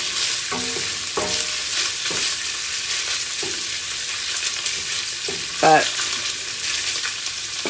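Ground meat frying in olive oil in a pan, a steady sizzle.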